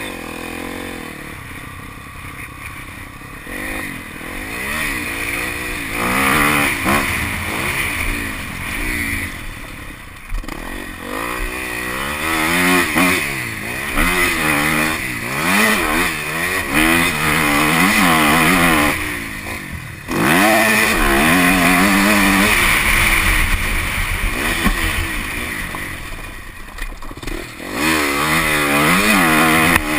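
Motocross bike engine being ridden hard, revving up and down over and over as the rider works the throttle and gears, its pitch rising and falling every second or two. The engine drops back briefly about nineteen seconds in, then picks up again sharply.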